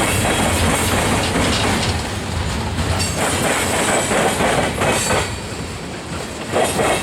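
Freight train cars rolling past, steel wheels clacking over rail joints in a loose repeating rhythm, with a faint wheel squeal.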